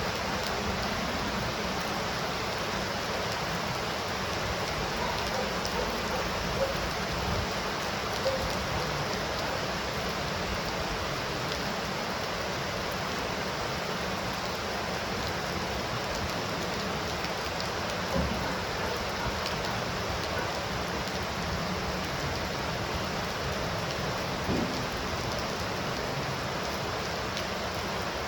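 Steady heavy rain falling, a continuous hiss with a few louder drops or splashes here and there.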